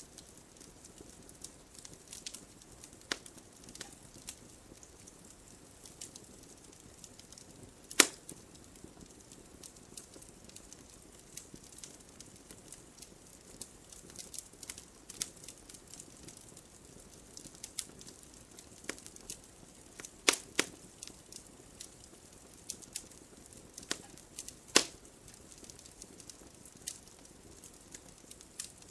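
Campfire burning, the wood crackling and popping at irregular intervals over a soft hiss. A few pops stand out louder: one about eight seconds in, a pair around twenty seconds, and one near twenty-five seconds.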